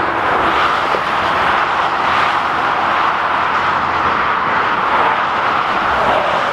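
Steady rushing of highway traffic going past at speed, a continuous roar of tyres and wind with no single vehicle standing out.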